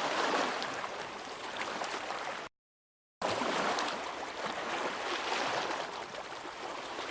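Shallow seawater at low tide, lapping and splashing in a steady wash. It cuts out to silence for under a second about two and a half seconds in, then starts again.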